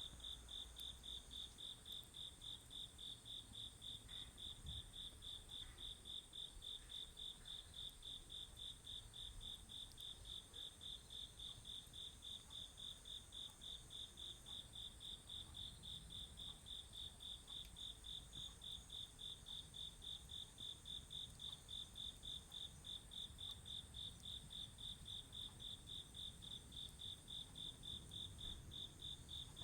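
Autumn crickets chirping in an even pulse about three times a second, with a fainter steady high trill from other insects behind it.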